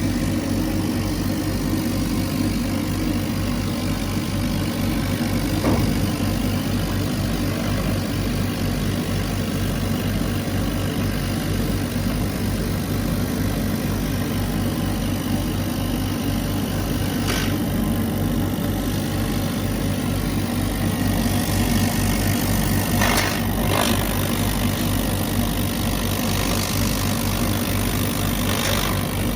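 CNC laser cutter running through a cut: a steady mechanical drone with a fast low pulsing hum, broken by a few short clicks.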